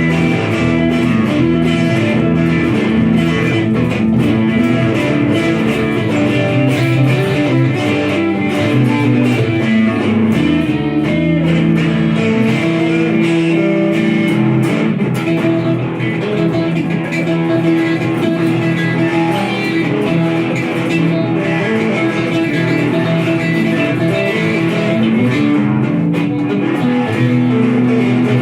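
Guitars playing an improvised blues-rock jam, with steady, dense sustained notes.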